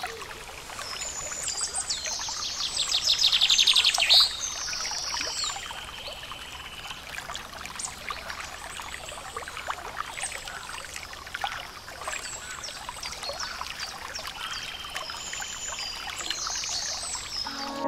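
Songbirds singing, with a loud, fast trill about two to four seconds in and shorter repeated phrases later, over a faint steady hiss.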